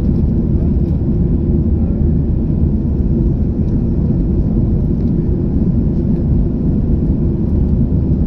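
Boeing 737-800's CFM56 turbofan engines running under power during takeoff: a loud, steady low rumble.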